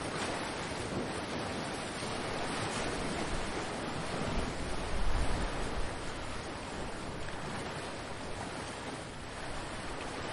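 Ocean waves washing onto the shore in a steady rush of surf, swelling louder and deeper about halfway through.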